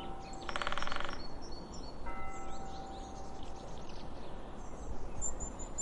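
Outdoor ambience with a low rumble and scattered bird chirps, a rapid pulsing trill about half a second in, and a chiming, bell-like tone that comes in about two seconds in.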